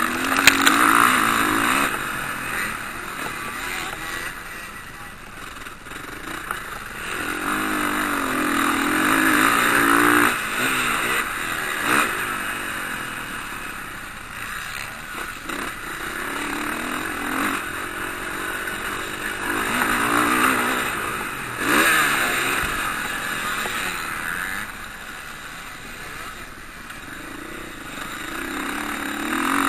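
Motocross bikes racing past, their engines revving, swelling and fading as riders go by about four times, with a few brief sharp cracks.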